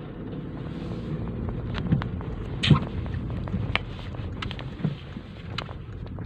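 Car running as it drives slowly, heard from inside the cabin: a steady engine and tyre rumble, with a few scattered short clicks and knocks.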